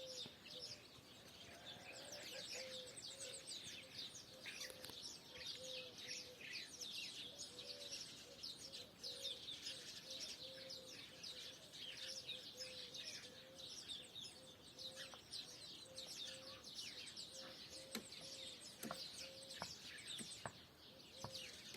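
Many small birds chirping and twittering in the morning, faint, with a short low note repeating steadily underneath.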